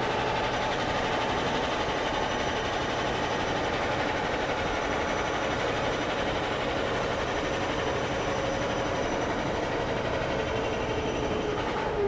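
Kawasaki Heavy Industries C151 MRT train running into the station: a steady rush of rail and running noise, with a whine that falls in pitch near the end as the train slows.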